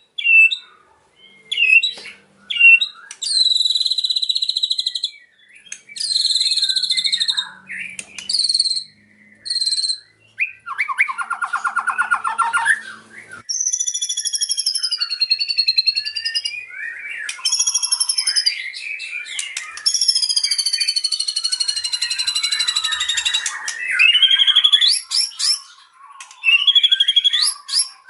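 White-rumped shama singing a long, varied song: short chirps, buzzy trills, a fast rattle and long whistled phrases, mixing in mimicked calls of other birds.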